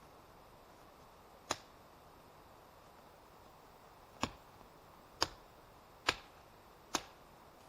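Five sharp strikes on wood, the first alone and the last four about a second apart, each short with a brief ring after it.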